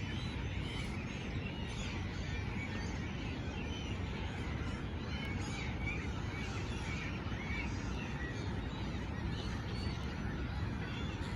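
Many birds chirping and chattering together in a steady chorus of short calls, over a low rumble of wind on the microphone.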